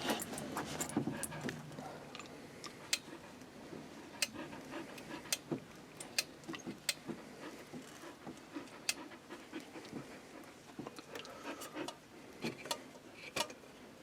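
A dog panting, with scattered sharp clicks and ticks throughout.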